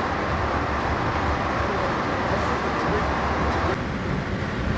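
Passenger train running, heard from inside the coach: a steady low rumble and rolling noise. The sound changes abruptly and gets a little quieter near the end.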